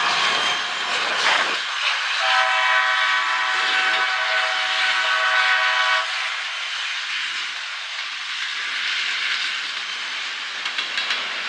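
CSX diesel freight locomotives passing close by, their engines and wheels on the rails making a steady loud noise. About two seconds in, a locomotive air horn sounds one long chord of several notes for about four seconds, then cuts off sharply.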